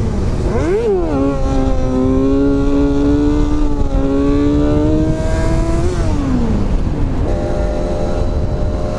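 Motorcycle engine revving up sharply just under a second in, then pulling with a slowly rising pitch. Its note dips briefly about four seconds in, as at a gear change, and falls away around six to seven seconds as the bike slows, then settles to a steady note. A dense wind rumble sits underneath.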